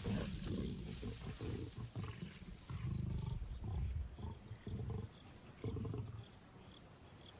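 Lions snarling and growling over a carcass as a young male pushes lionesses off the kill. A run of deep growls comes first, then four shorter growls about a second apart, fading toward the end.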